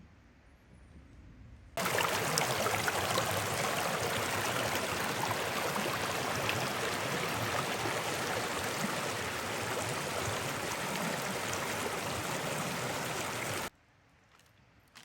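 Rushing water of a mountain river, a loud, even rush that cuts in suddenly about two seconds in and cuts off just as suddenly near the end.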